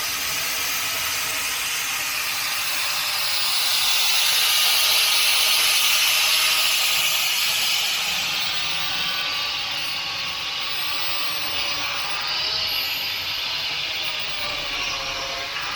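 Angle grinder cutting through the sheet-metal casing of an element-type diesel filter: a steady, loud grinding hiss with the motor's whine wavering in pitch as the disc is loaded.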